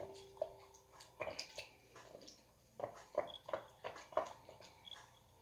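Utensils knocking and scraping against a mixing bowl as flour is added and stirred into a gelatin mixture: a string of light, irregular knocks, coming about three a second for a while after the middle.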